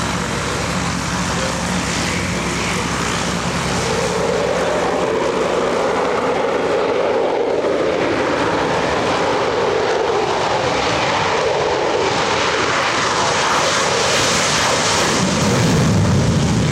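F-35A Lightning II's single F135 turbofan at takeoff power on its departure roll: steady, loud jet noise that swells and grows louder and deeper near the end.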